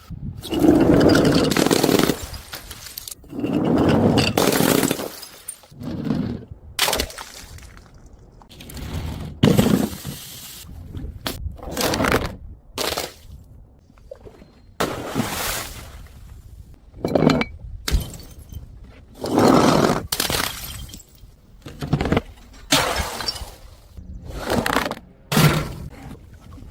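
Glass bottles smashing one after another: a long series of separate breaking crashes, each with the scatter of shattering glass.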